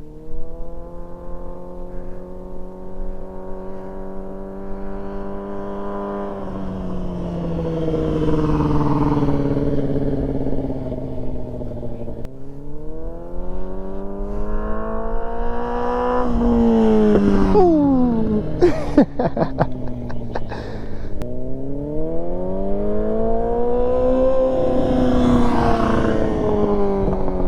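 Yamaha R6 sport bike's inline-four engine accelerating and slowing several times, its pitch rising, holding and falling, with a sudden drop about halfway through followed by a short spell of crackling.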